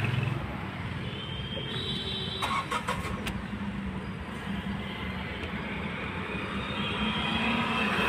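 Tata Punch's three-cylinder petrol engine starting on the starter and running at a steady idle, with a few clicks about two and a half to three seconds in. It starts now that the rat-chewed wiring behind its 'engine lock' fault has been repaired.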